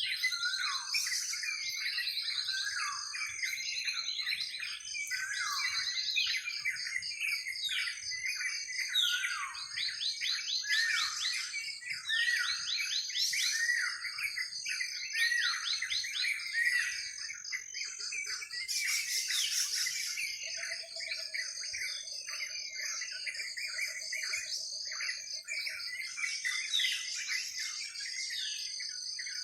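Dense forest chorus of many birds chirping and calling over one another, with short sweeping notes and rapid trills, above a steady high-pitched trilling. About two-thirds of the way through, a lower pulsed trill runs for several seconds.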